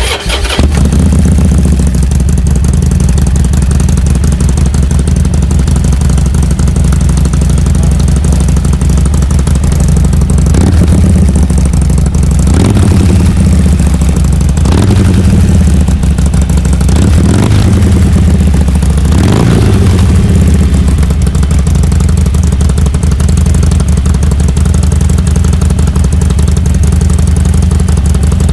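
Harley-Davidson Iron 1200's air-cooled 1200 cc V-twin, breathing through Cobra slip-on mufflers, starting right at the beginning and idling steadily. It is blipped five times between about ten and twenty seconds in, each rev rising and falling back to idle, then idles on to the end.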